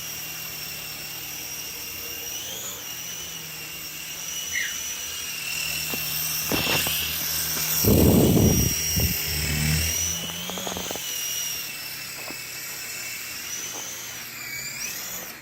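Sky Rover Vigilante toy helicopter's small electric motor and rotors running with a steady high whine, rising and dipping slightly in pitch as the throttle changes. A loud, short rumble about eight seconds in.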